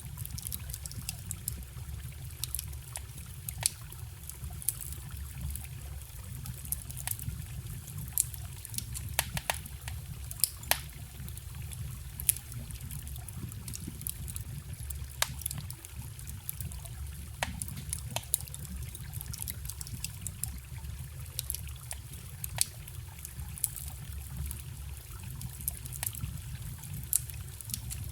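Wood fire crackling with irregular sharp pops, over the steady low rush of a forest stream.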